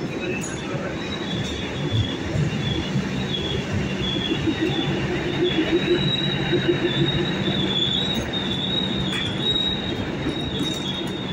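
DEMU (diesel-electric multiple unit) train rolling slowly into the platform, its wheels squealing steadily at a high pitch over the rumble of the coaches. A low steady hum from the train's engine runs under it through the middle.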